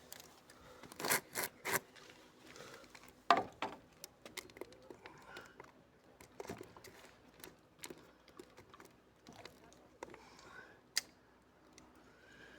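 Close handling noise: rustling with a few sharp clicks and knocks, three in quick succession about a second in and the loudest a little after three seconds.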